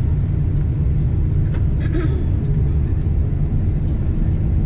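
Steady low rumble of an airliner cabin heard from a passenger seat, with a few faint clicks about one and a half to two seconds in.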